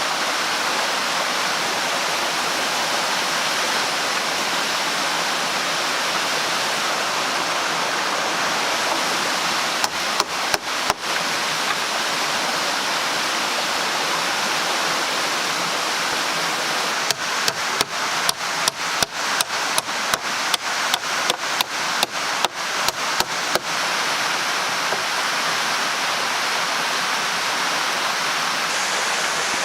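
Steady rushing of running water, like a stream. Over it come sharp knocks: a handful about ten seconds in, then a run of about twenty, some three a second, from around seventeen to twenty-four seconds.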